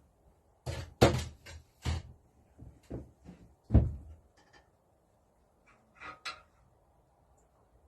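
A series of metal knocks and clunks as removed engine parts from the Lister D's valve gear are handled and set down. There are about six knocks in the first four seconds, the loudest just before four seconds in, and a softer pair about six seconds in.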